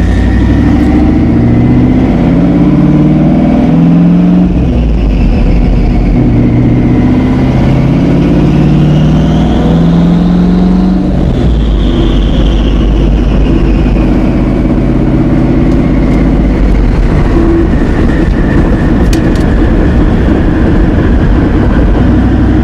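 Twin-turbocharged LS1 V8 of a Pontiac Trans Am under way. The revs shift, and a high turbo whine rises to a peak about ten seconds in, then falls away as the engine settles to a steady run.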